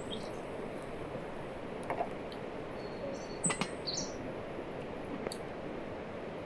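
Birds chirping in a few short high calls, mostly around the middle, over a steady outdoor background hiss, with a single sharp click about three and a half seconds in.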